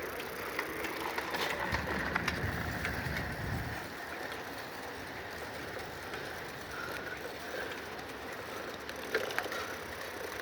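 Bicycle coasting along a path, its freewheel hub ticking with scattered small clicks over the tyre noise, with a low rumble for about two seconds near the start.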